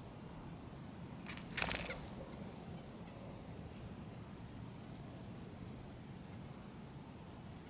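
Backyard birds at winter feeders: short, very high, thin call notes repeating about once a second, and a short loud burst of rapid pulses about a second and a half in, over a steady low rumble.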